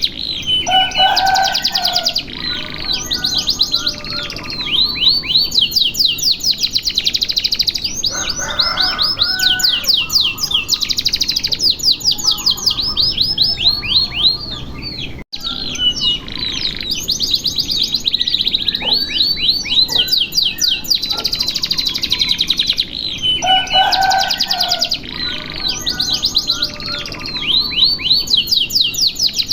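Domestic canary singing a long, continuous song of rapid trills and rolls of fast repeated high notes. It is the kind of master recording played to train other canaries. The song cuts out for an instant about halfway and resumes.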